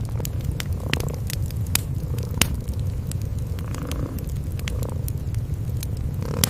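A kitten and its mother cat purring in a steady low rumble, over a wood fire crackling with sharp pops at irregular times.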